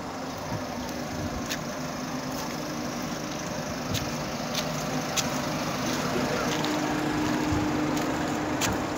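Steady engine hum of a parked minibus idling, with a few faint ticks and clicks.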